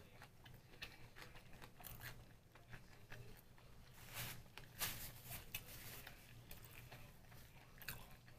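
Someone chewing a mouthful of homemade sushi roll, nori-wrapped rice with vegetables, close to the microphone: soft irregular wet mouth clicks, a little louder around the middle.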